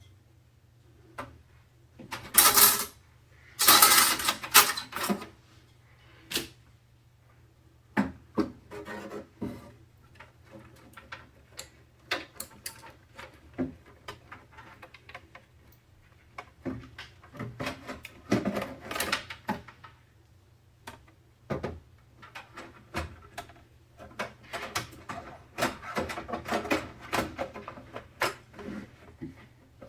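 Hands working with computer parts during a PC build: irregular clicks, taps and rustling, with louder rustling bursts about two to five seconds in and again around eighteen seconds, over a low steady hum.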